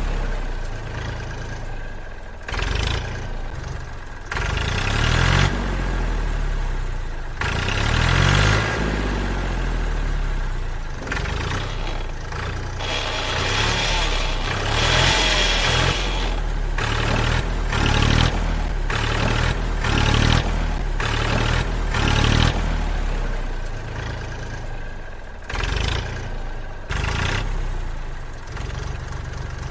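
Tractor engine running, idling and revving by turns, its pitch jumping abruptly every second or two.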